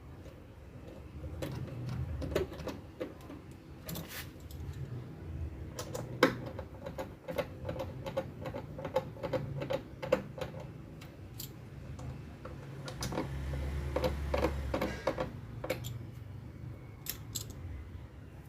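Irregular light clicks, taps and knocks of parts being handled and fitted into an egg incubator during reassembly, over a low hum.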